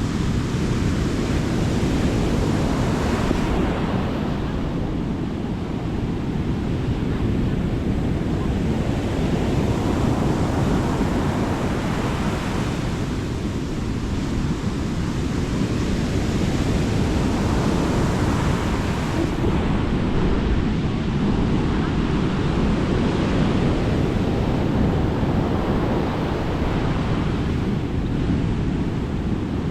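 Mediterranean sea waves breaking and washing up the beach, one swell about every five seconds, over a steady wind rumble on the microphone.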